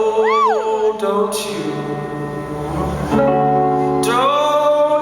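Live band music with a man singing over plucked strings and sustained notes. About half a second in, one pitch slides quickly up and back down.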